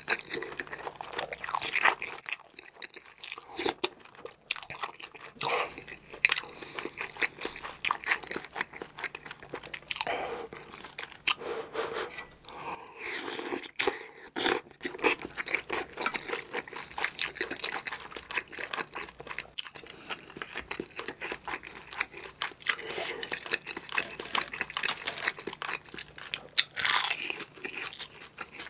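Close-up eating sounds of a person chewing mouthfuls of kimchi stew with spam and tuna: wet smacking and lip noises with many small crunches, going on throughout, with a louder burst of mouth noise a few times.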